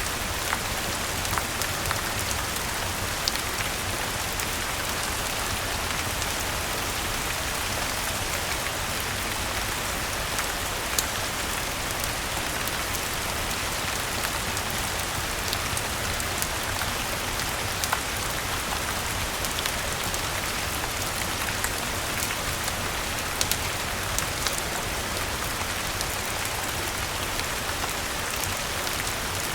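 Steady rainfall, an even hiss, with scattered sharp ticks and pops throughout.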